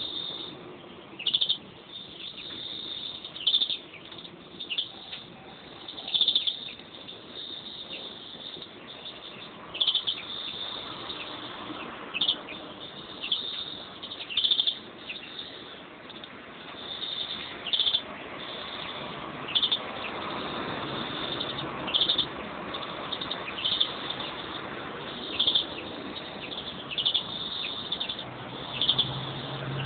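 Pet European greenfinches calling: short, sharp chirps every second or two over continuous twittering.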